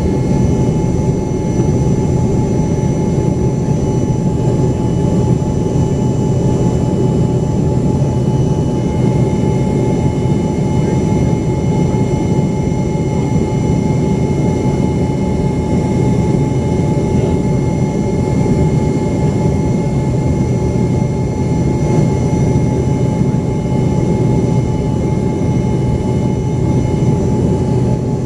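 Cabin noise of an Embraer ERJ-135 with its rear-mounted turbofan engines running steadily: a loud, even roar with a steady whine on top.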